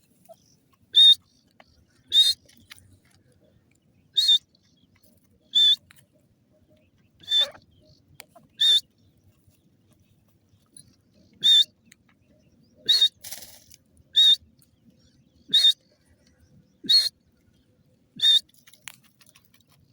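A francolin (teetar) calling: a dozen or so short, high-pitched calls, about one every second or two.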